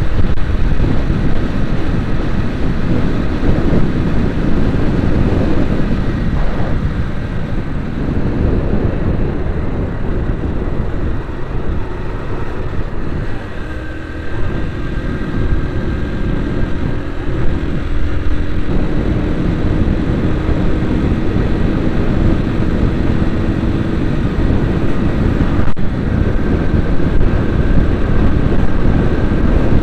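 Motor vehicle driving along, with a continuous loud engine and road rumble. From about halfway through, a steady engine note rises slightly in pitch.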